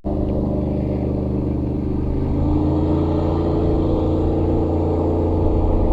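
Motorboat engine running steadily, its pitch rising a little midway and easing down near the end.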